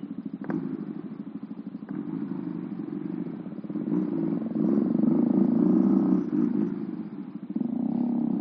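Honda Astrea Prima motorcycle's converted two-cylinder engine running under throttle while riding. It revs up and gets louder from about four seconds in, eases off around six seconds, and picks up again near the end.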